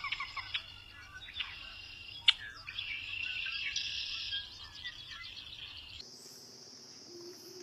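Small birds chirping and twittering in quick high notes, thickest in the middle. About six seconds in, the sound changes to a steady high-pitched buzz.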